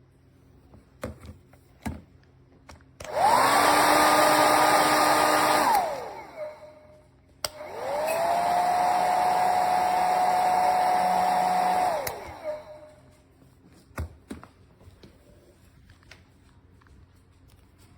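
Revlon 1875W compact hair dryer switched on and blowing for about three seconds with a high fan whine, then winding down with a falling pitch. After a click it runs again for about four seconds at a lower pitch and a little quieter, as on its low setting, and winds down again. Handling clicks come before and after.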